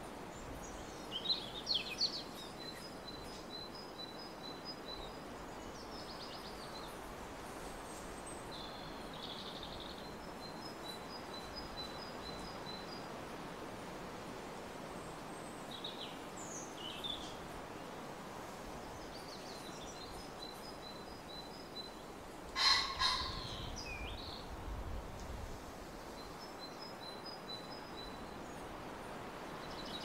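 Small birds calling over a steady outdoor hiss: scattered short high chirps and several runs of rapid, evenly spaced high notes. One louder, sharp sound comes about three-quarters of the way through.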